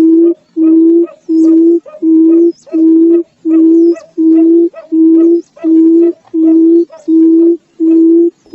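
Barred buttonquail giving its low booming hoot call: a long series of steady, even-pitched hoots, each about half a second long, repeated roughly one and a half times a second.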